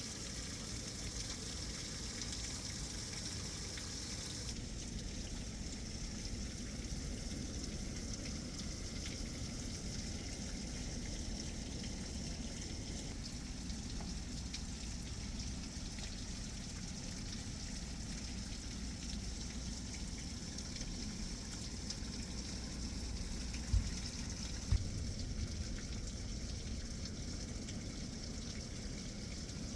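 Downpour of rain falling steadily in a thunderstorm. Two brief low thumps come about a second apart, a little past the middle.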